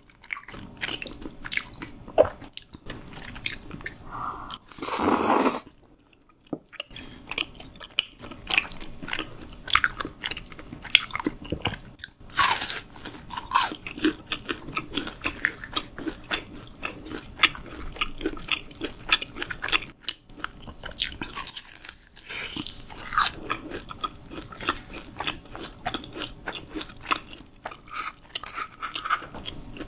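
Close-miked biting and chewing of crunchy fried food, with many small crackles and a few sharper crunches. A brief louder rush of noise comes about five seconds in.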